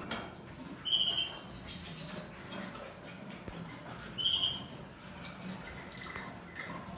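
Female canary giving short chirping calls, two louder chirps about a second in and a little past four seconds, with fainter high chirps between.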